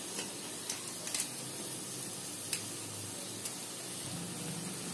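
Onion-tomato masala with spices frying in oil in a pot on the stove, sizzling steadily at a low level with a few faint pops.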